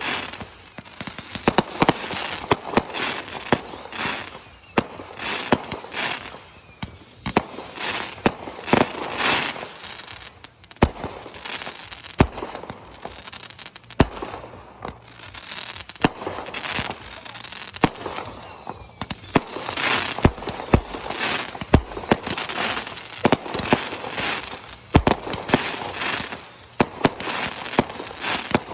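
Aerial fireworks display: a rapid barrage of sharp bangs with crackling between them, and repeated short whistles that fall in pitch, with a brief lull about ten seconds in.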